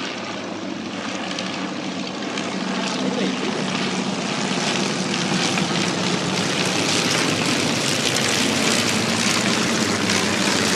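Meyers OTW biplanes passing over in formation, their radial piston engines and propellers droning and growing steadily louder as they approach.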